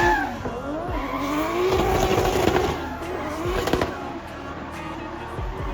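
Drift car's engine revving up and down through a slide, with tyres squealing.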